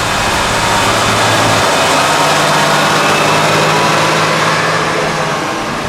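Large farm tractor's diesel engine running hard under load while pulling a heavy trailer: a loud, steady drone with a lot of broad noise. The drone steps up in pitch about two seconds in.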